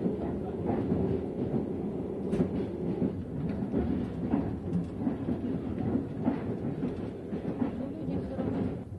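Train running on the rails: a steady low rumble with irregular clacks and rattles throughout.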